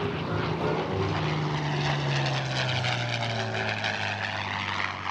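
Propeller-driven WWII fighter flying past, its piston engine droning and dropping in pitch as it passes.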